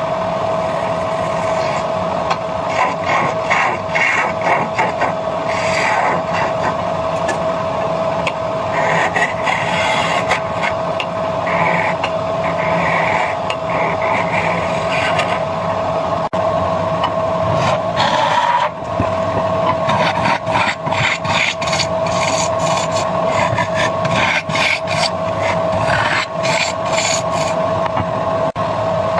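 Stihl power tool running at a steady high speed while working wood, with a continuous scraping, rasping sound of wood being cut away. About two-thirds of the way through, the tone briefly drops, then comes back.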